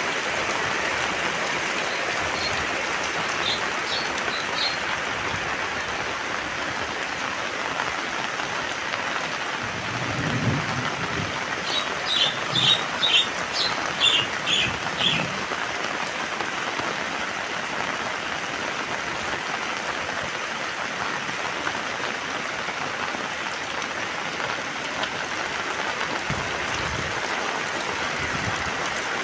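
Heavy rain falling steadily. Short high bird chirps come through it about four seconds in, and again in a quick run from about twelve to fifteen seconds in.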